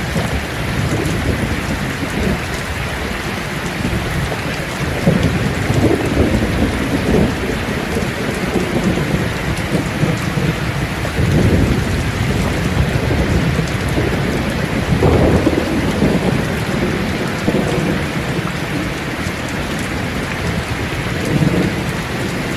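Steady heavy rain falling on leaves, with low thunder rumbling and swelling up several times.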